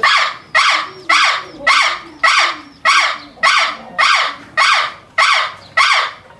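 A bird giving a loud, rapid series of about eleven harsh, evenly spaced calls, a little under two a second.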